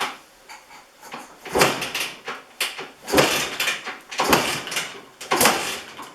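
1965 Sears Allstate 175 motorcycle being kick-started about four times, each kick a clunk and a short churn of the engine turning over without catching. This is a cold first start on choke after decades of sitting.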